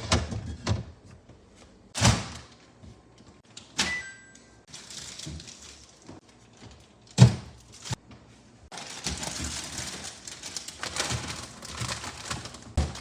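Household handling sounds: four separate thunks and knocks about two seconds apart, with a short beep about four seconds in. From about nine seconds on there is a continuous rustling noise.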